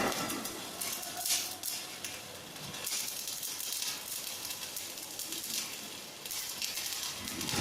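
Electric arc welding crackling and sizzling steadily, the hiss of the arc rising and falling as the weld goes on.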